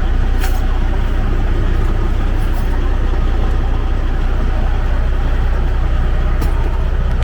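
Freightliner Columbia semi truck's diesel engine idling steadily with a deep, even rumble, warmed up to operating temperature. A couple of faint clicks come about half a second in and near the end.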